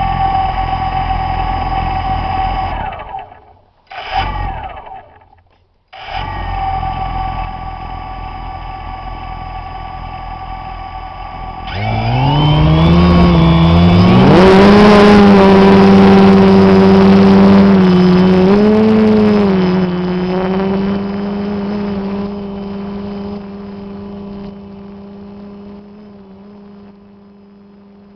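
DJI Phantom quadcopter's propeller motors spinning up, cutting out near 3 s, blipping briefly, then restarting and running steadily at idle. About 12 s in the pitch rises as the drone lifts off; it is loudest for a few seconds, then settles into a steady hum that fades as it climbs away.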